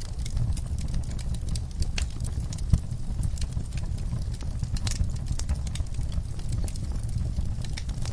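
Wood fire burning in a fireplace: a steady low rumble of flames with frequent irregular crackles and pops, one sharper pop a little under three seconds in.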